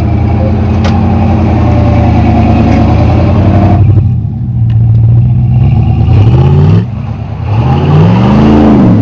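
Off-road competition truck's engine running hard under load and revving. It eases off about four seconds in, climbs again, cuts out briefly just before seven seconds, then revs up and falls back near the end.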